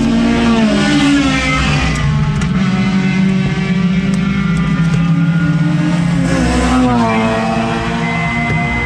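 Honda S2000's four-cylinder engine at high revs on a racetrack. Its pitch falls and climbs several times with throttle and gear changes. A thin steady high tone joins near the end.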